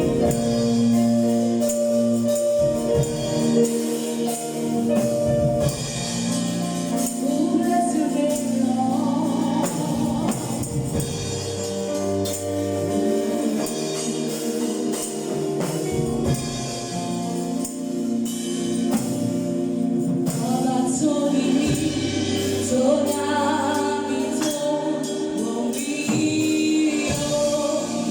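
Gospel choir singing to a sustained organ-like accompaniment, with tambourine hits.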